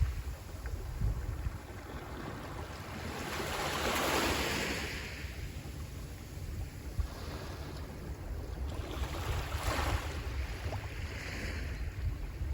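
Sea waves breaking and washing onto the shore, swelling in surges a few seconds apart, with wind rumbling on the microphone.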